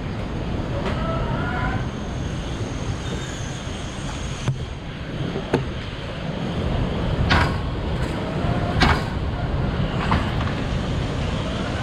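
Hurricane-force wind roaring and buffeting the microphone, a dense steady rumble, with several sharp knocks and clanks scattered through its second half, the loudest about 9 seconds in.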